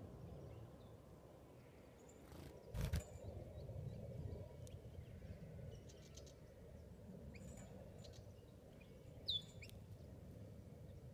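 Open-country ambience: steady low background noise with a few short, faint bird chirps, the clearest one about nine seconds in. A single sharp thump about three seconds in is the loudest sound.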